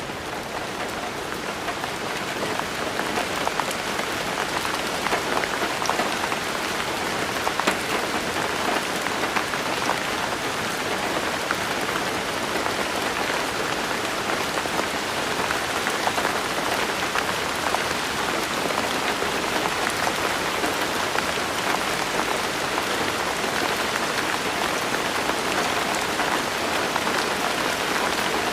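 Steady rain falling on a surface, a dense even patter with many distinct drop hits ticking through it. It swells up over the first few seconds, then holds steady.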